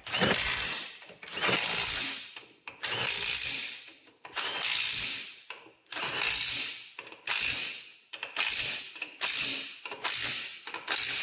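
A socket ratchet clicking through about ten strokes while wheel bolts on a garden tractor are run down. The strokes get shorter and quicker in the second half.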